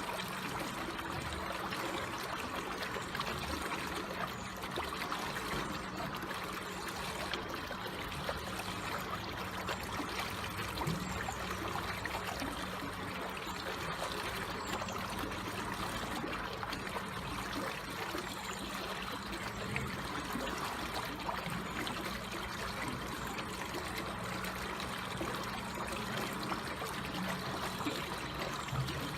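Water flowing slowly and gently, a steady trickling with no breaks.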